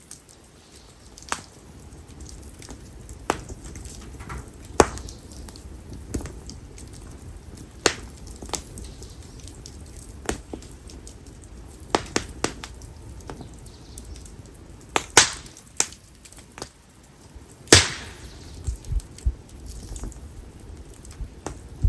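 Konara oak firewood burning in an open campfire: irregular sharp crackles and pops every second or so over a low, steady flame rumble, with the loudest pops about three-quarters of the way through.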